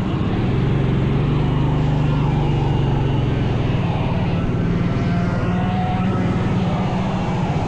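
Small 100cc racing engine running at high revs, a steady drone that rises slightly in pitch about half a second in and then holds.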